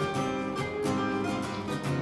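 Two acoustic guitars playing a jazz piece live: chords strummed in a steady rhythm under a picked melody line.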